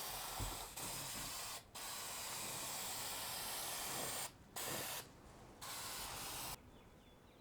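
Spraying a coating: a steady spray hiss in long bursts, broken by a few short pauses as the nozzle is released, ending about a second before the end.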